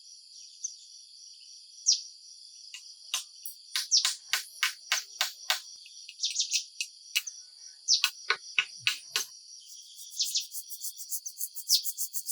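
Steady high-pitched insect chorus, like crickets, with runs of sharp, quick chirping notes, about four a second, starting a few seconds in and again later.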